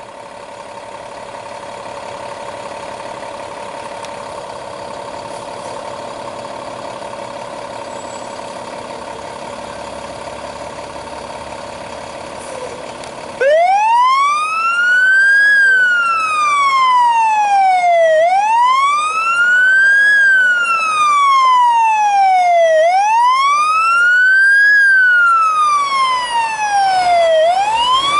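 Fire engine on an emergency response: a steady drone for the first half, then its electronic siren switches on suddenly, much louder, in a wail that sweeps up quickly and glides slowly down about every four and a half seconds.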